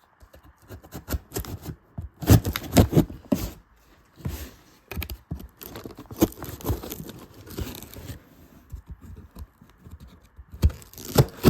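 Cardboard shipping box being opened by hand: packing tape tearing and cardboard scraping and rustling in irregular bursts, loudest about two to three seconds in and again near the end.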